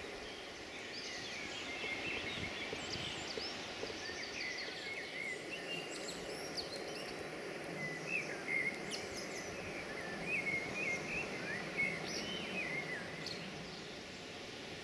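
Songbirds singing in forest, a run of quick chirps and warbling phrases, over a steady low rushing background noise.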